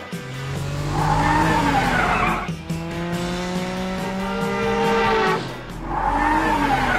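Cartoon car sound effects over background music: tyres screeching about a second in and again near the end, with an engine revving up, rising in pitch, between them.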